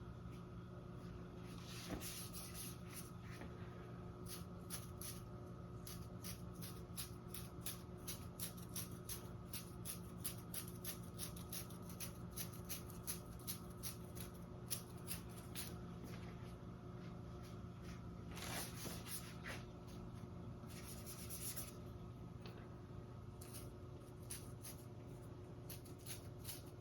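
Paint-loaded toothbrush bristles flicked to spatter paint, a faint, rapid run of short ticks, broken by a couple of brief rubbing sounds about two-thirds through.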